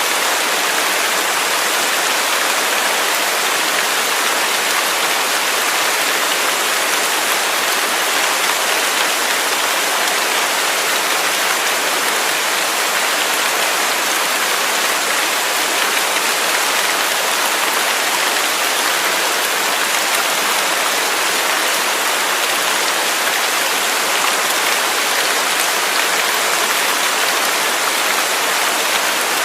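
Waterfall: falling water rushing steadily as an even hiss, with little low rumble and no change in level.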